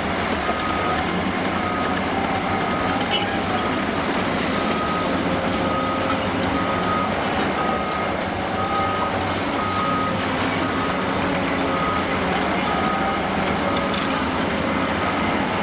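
Backup alarm on heavy demolition-site machinery, beeping steadily at a little under two beeps a second over the steady noise of heavy diesel machinery running.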